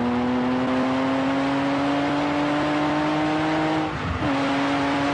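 Lamborghini Countach V12 engine under acceleration, its note climbing steadily in pitch. The note breaks briefly about four seconds in, then holds steady.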